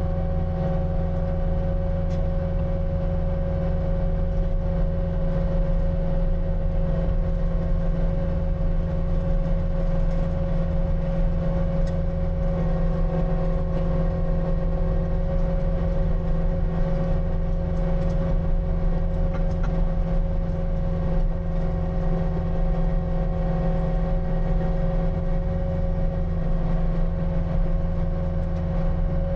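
Skid steer engine running steadily, with a constant hum and a steady higher whine over it.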